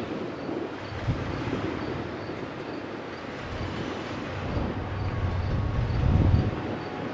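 Double-stack intermodal freight train's cars rolling past: a steady rumble of steel wheels on rail that swells about five to six seconds in. A faint, high, even tick repeats about twice a second throughout.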